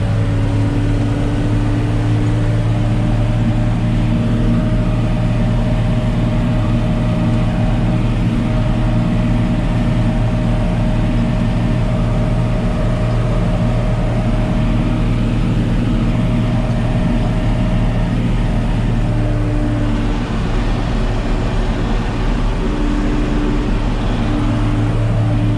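Tractor engine running steadily under load while the manure spreader unloads, a continuous low drone with a hum that shifts slightly near the end.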